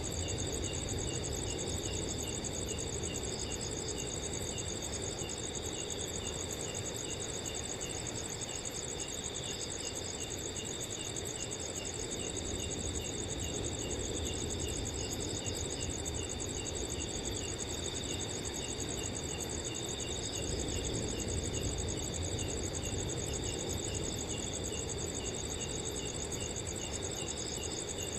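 Several crickets chirping together without pause: one high, continuous pulsing trill, with others repeating short, evenly spaced chirps beneath it. A soft, even rush of wind sits underneath.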